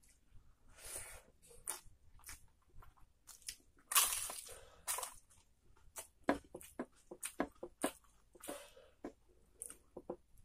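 Close-miked eating: chewing and crunching bites of a crisp fried wafer along with mouthfuls of rice and curry, in many short crunches. The loudest crunch comes about four seconds in, with another about a second later.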